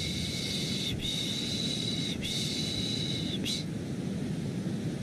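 Rhythmic 'shh, shh' shushing used to settle a baby to sleep, three shushes of about a second each, over a steady low white-noise hum. The shushing stops about three and a half seconds in, leaving the noise alone.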